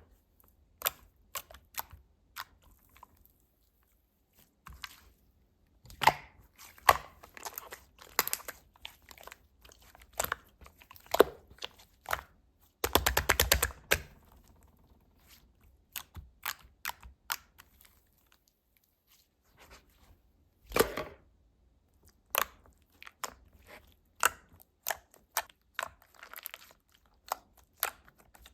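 Cloudy white liquid-type slime squeezed and worked by hand, giving irregular sticky clicks and pops, with a fast run of crackling clicks about halfway through.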